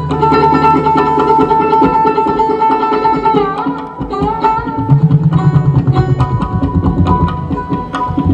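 Background instrumental music in Indian classical style: a quick tabla rhythm under a melody of long held notes, which bend in pitch a little after three seconds.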